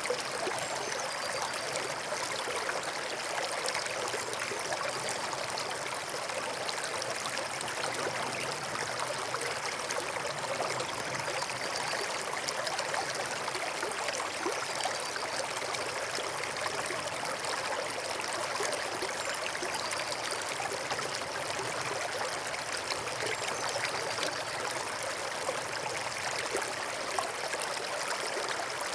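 Forest stream flowing, a steady, unbroken rush and trickle of running water.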